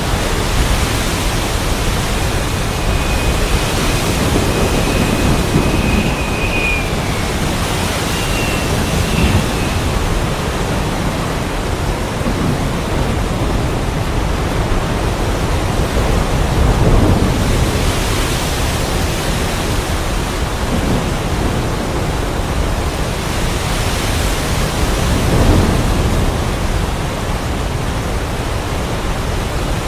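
Heavy rain pouring as a steady dense hiss, with low rumbles of thunder swelling up several times, the strongest about halfway through and again later. A faint thin whistling tone runs briefly a few seconds in.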